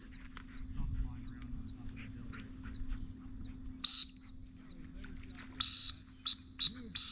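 Dog-training whistle blown in loud, shrill blasts to direct a retriever on a retrieve: a short blast about four seconds in, a longer one just before six seconds, two quick pips, then another longer blast near the end. A faint steady insect drone runs underneath.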